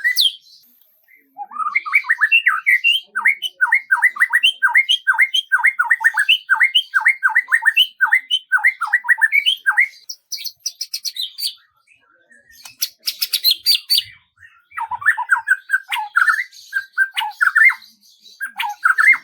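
Songbird singing: a run of quick, repeated down-slurred notes lasting about eight seconds, then a short higher trill and a burst of scratchy chatter, then choppier warbled phrases near the end.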